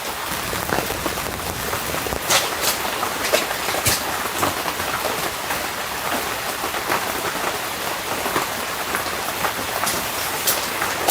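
Steady rain falling, a constant hiss dotted with sharp, irregular drop hits.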